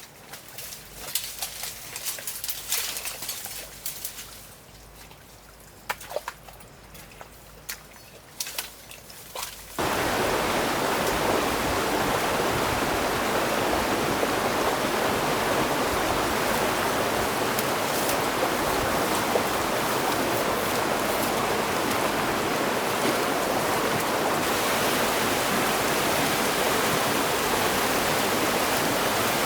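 A few scattered clicks and knocks, then, about ten seconds in, a steady rush of running water starts abruptly and holds evenly, like a stream or small waterfall.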